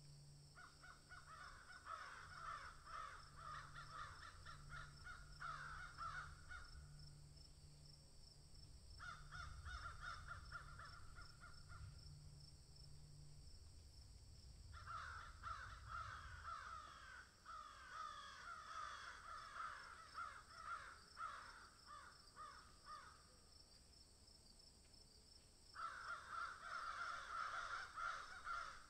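Faint chattering bird calls in four bursts of several seconds each, with a steady high-pitched hiss underneath throughout.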